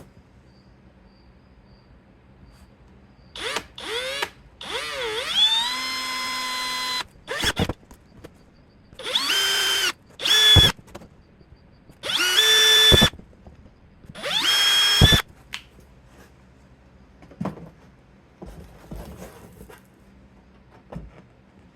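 Electric drill run in a series of short bursts, about eight in all, drilling bolt holes through thin copper-coated aluminium gasket sheet; each time the motor whine rises as it spins up, then holds steady. The drilling stops about fifteen seconds in, leaving only faint clicks.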